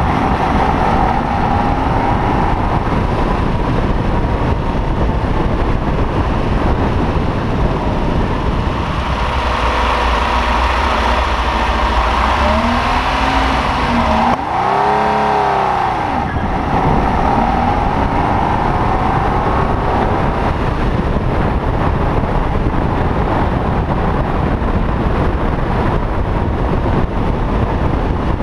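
Freshly rebuilt Ferrari 250 GT/E V12 engine running as the car is driven, heard from just above the open engine bay. About halfway through the revs drop as the car slows, there is a quick rise and fall in pitch, then the engine pulls away and climbs in pitch.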